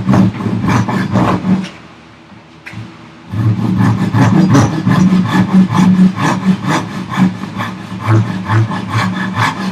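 Gyokucho Japanese razor saw crosscutting a thick wooden block, rapid rasping pull strokes. The sawing stops briefly about two seconds in, then resumes and keeps going.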